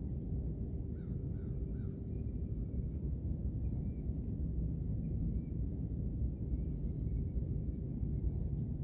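Birds calling: a few short notes about a second in, then a run of drawn-out high, thin calls, the longest near the end, over a steady low rumble.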